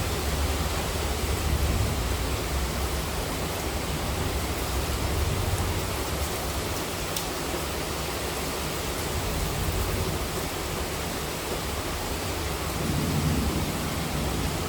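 Monsoon rain falling steadily: a dense, even hiss of rain with a deep rumble underneath that swells slightly near the end.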